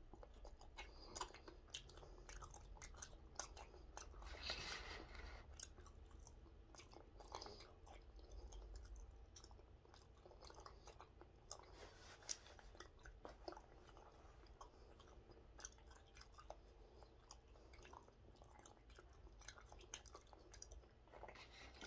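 Faint chewing of a mouthful of gwamegi (semi-dried fish), with small wet mouth clicks scattered throughout and a slightly louder stretch about four seconds in.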